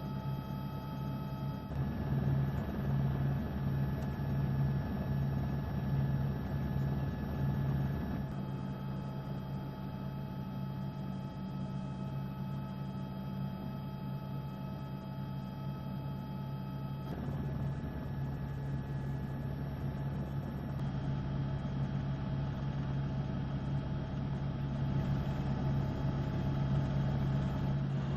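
Steady low mechanical hum with several constant tones above it. It changes character abruptly about four times.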